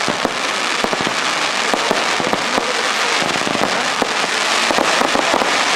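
A fireworks display firing: a dense, continuous crackle of many small pops, with no single big bang standing out.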